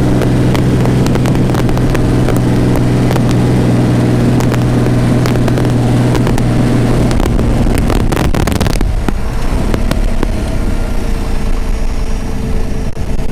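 The Shelby AC Cobra's 1000 hp V12 marine racing engine is running loud on the move at a steady engine speed, with sharp pops and clicks over it. About seven seconds in the steady note falls away, and from about nine seconds it gives way to a rougher, noisier rush.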